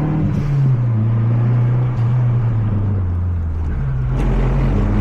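Mazda 3 MPS's turbocharged 2.3-litre four-cylinder engine running under load on track, heard onboard, its note holding fairly steady with small pitch changes. About four seconds in, a swell of rushing road noise with a low rumble joins it.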